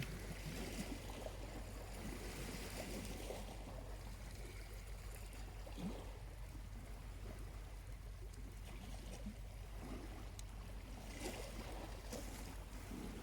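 Small waves washing gently onto the beach in soft swells, with a few faint crackles from a burning charcoal campfire.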